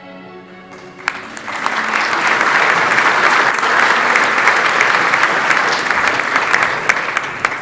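An audience applauding: the clapping starts about a second in, swells to a loud, dense ovation and begins to die away near the end. A held chord of instrumental music fades out in the first second.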